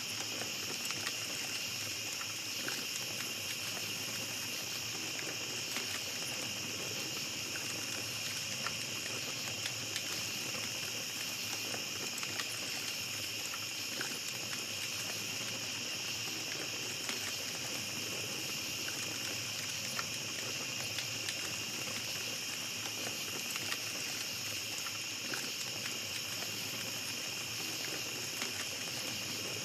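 Small campfire crackling with scattered light pops over a steady, high chorus of night insects.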